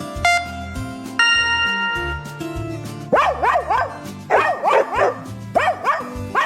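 Background music with held notes. About three seconds in, a dog starts barking over it in quick runs of high-pitched yaps.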